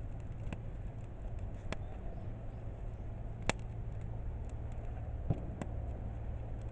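Wood fire burning in a garden kamado hearth: scattered sharp crackles and pops, the loudest about three and a half seconds in, over a low steady rumble.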